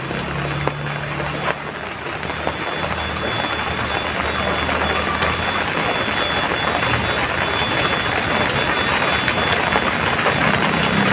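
Heavy rain falling steadily, a dense even patter that grows somewhat louder through the first half.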